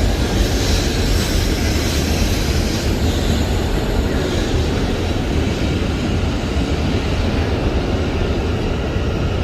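Joetsu Shinkansen train running, a steady, even rushing rumble with no change in pitch or level.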